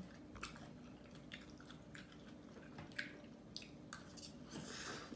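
Faint, irregular wet clicks and smacks of chewing, a person eating japchae glass noodles.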